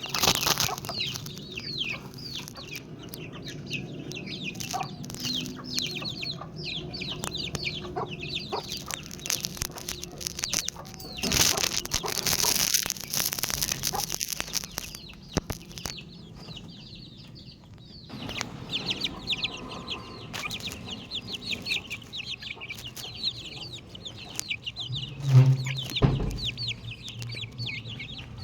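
Chickens clucking, over a near-constant stream of short, high, falling chirps. There are a few seconds of rushing noise near the middle and one louder, lower call near the end.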